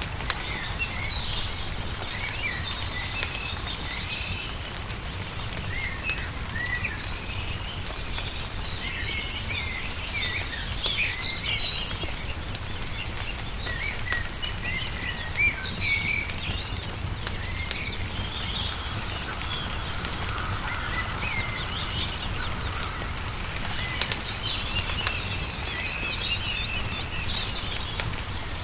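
Wood fire crackling with irregular sharp pops, over many small birds chirping and singing, with a steady low rumble underneath.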